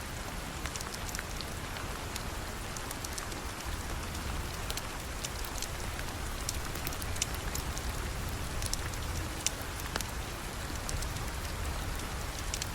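Steady rain falling, a continuous even hiss with a low rumble underneath, dotted with scattered sharp ticks and pops.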